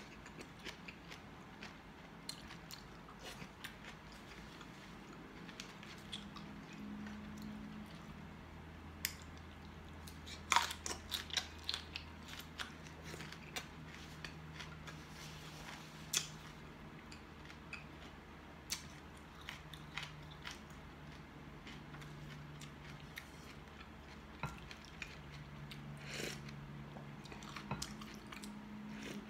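A person biting and chewing cooked Italian squash, with irregular sharp mouth clicks and smacks throughout. A faint low hum sits underneath from about six seconds in.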